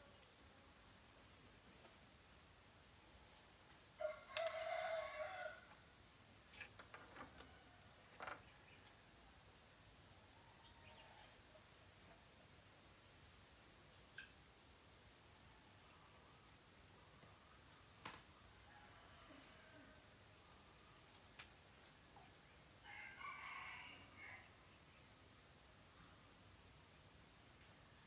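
Insects chirping in high-pitched bouts of rapid pulses, each bout lasting a few seconds with short pauses between. A bird calls twice over it, loudest about four seconds in and again near the end.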